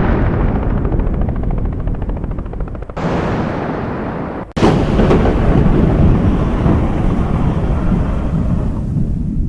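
Loud, dense rumbling and booms of cinematic explosion sound effects, broken by abrupt cuts about three seconds in and again just before halfway.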